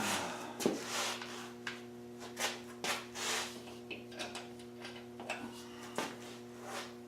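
Irregular clicks, knocks and short scrapes as a mini bike seat and its hardware are handled and fitted, over a steady low hum.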